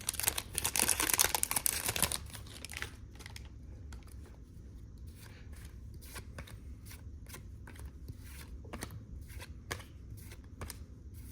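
A trading-card pack wrapper is torn open and crinkled for the first two seconds or so. Then football cards are flicked through one by one, with a light snap about every half second.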